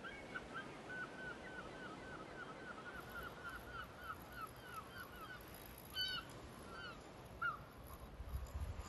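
A bird calling a quick series of short, hooked calls, about three a second, then a few single calls further apart; a low rumble comes in near the end.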